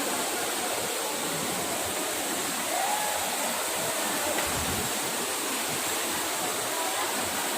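Rushing water of a waterfall: a steady, even roar of falling water.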